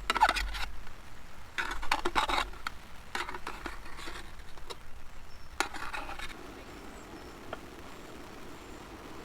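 A utensil scraping and clinking in a cooking pot or pan in several short bursts over about the first six seconds, then only a soft, steady hiss.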